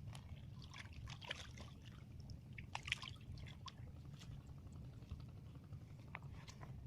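Faint water sounds: small splashes and drips, busiest about one and three seconds in, over a low steady rumble.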